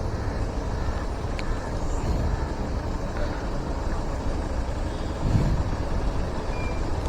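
Steady road and engine noise of a car driving along, a low, even rumble.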